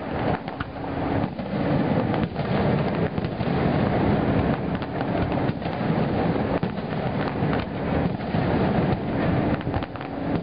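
Aerial fireworks bursting in quick succession, the bangs running together into a continuous rumble with crackle.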